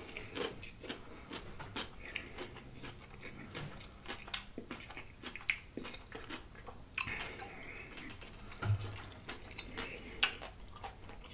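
Close-miked chewing of a mouthful of corned beef sandwich on rye, with wet mouth smacks and small clicks scattered throughout.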